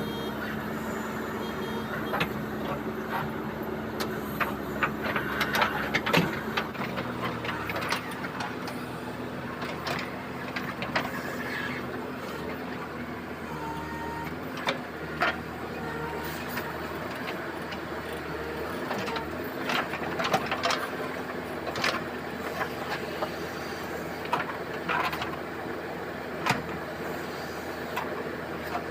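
JCB 3DX backhoe loader's diesel engine running steadily, its note dropping a little about six to seven seconds in, with scattered knocks and clanks throughout.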